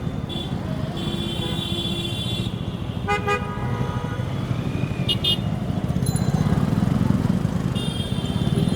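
Exhaust of a TVS Apache RTR 4V motorcycle's single-cylinder engine running on the road, picked up close to the pipe, with the engine getting louder around two-thirds of the way in. Other vehicles' horns honk several short times over it.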